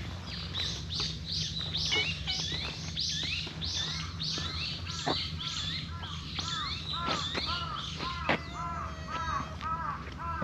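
Birds singing: a fast series of short, falling chirps, about three a second, with lower, arched notes repeating over the last few seconds.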